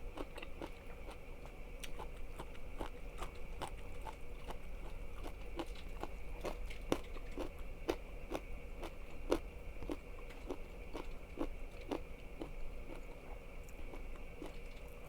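Close-miked chewing of crunchy food, a steady run of crisp crunches about two a second.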